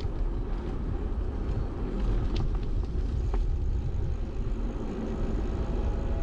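Steady wind rumble and road noise on a bike-mounted GoPro's microphone while riding, with a few sharp clicks of the bike rattling over the road about two and three seconds in.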